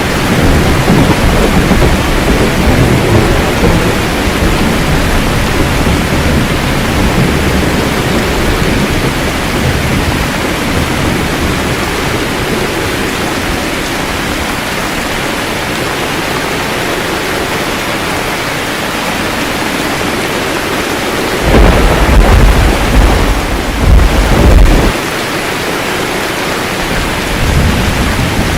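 Steady heavy rain with thunder rumbling low underneath. Two louder peals of thunder come about three-quarters of the way through, and a smaller rumble follows near the end.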